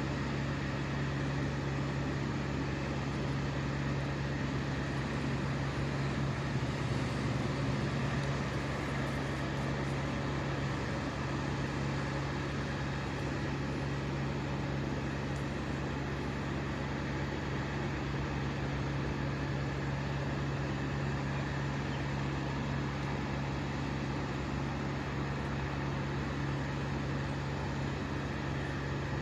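Engine running steadily at high speed: a constant hum with a strong low tone and a haze of mechanical noise, swelling slightly for a few seconds about seven seconds in.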